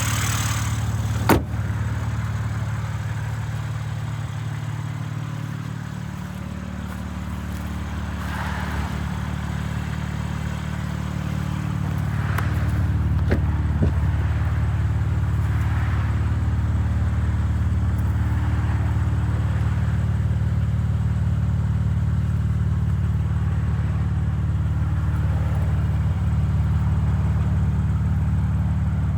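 A BMW M3 Competition's 3.0-litre twin-turbo inline-six idles steadily with a low, even hum. A single sharp click comes about a second in. The engine sound dips a little, then grows louder again about twelve seconds in.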